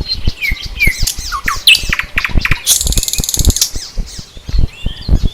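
Wild birds chirping and calling, with a dense buzzy trill for about a second near the middle. Frequent short, low thumps run underneath.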